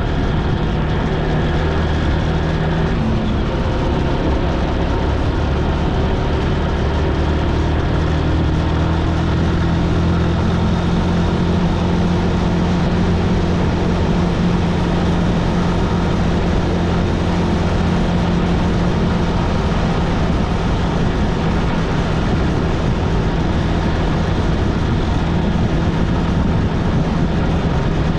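Motorcycle engine running at a steady cruising speed, with road and wind noise. Its pitch shifts a little in the first few seconds, then holds even.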